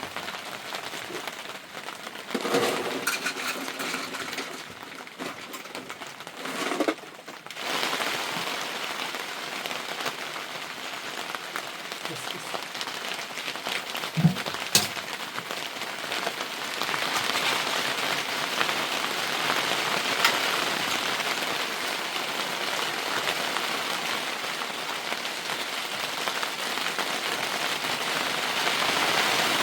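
Heavy rain falling steadily as an even hiss, growing louder from about halfway through. Two sharp knocks come close together in the middle.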